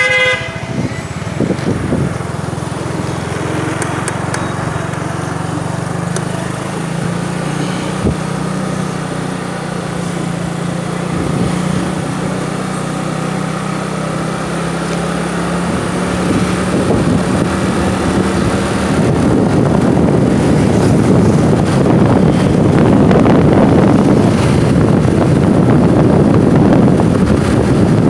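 Motorbike engine running steadily while riding, with wind rushing over the microphone. The wind noise grows louder from about two-thirds of the way in and covers the engine hum.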